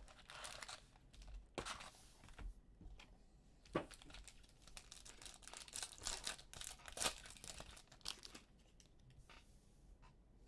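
Plastic wrapping on a box of trading cards being cut with a knife and torn open, crinkling in irregular bursts. There are sharper snaps about four seconds in and again about seven seconds in.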